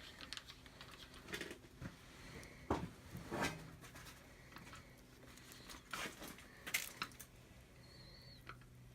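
Scattered small clicks and knocks of hands handling plastic: an oil bottle and the fill cap of an air compressor's oil fill being opened, over a faint steady low hum.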